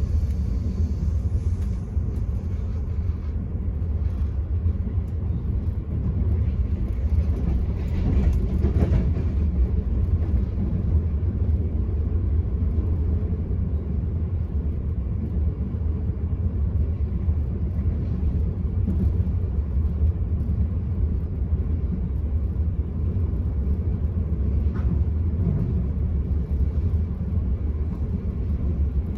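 Enterprise passenger train running along the line, heard from inside the coach: a steady low rumble of wheels on rails, with a brief louder swell about eight seconds in.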